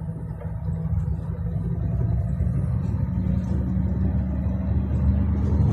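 Steady low rumble of a motor vehicle running under way, engine and road noise with a faint steady hum.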